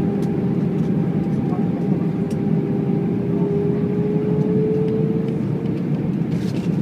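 Airbus A319 cabin noise: a steady roar of airflow and jet engines, with an engine tone that rises slowly in pitch over the first five seconds or so.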